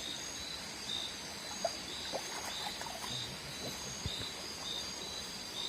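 Chorus of insects and frogs: a steady high-pitched buzz with a short chirp repeating about twice a second, and a few faint small clicks.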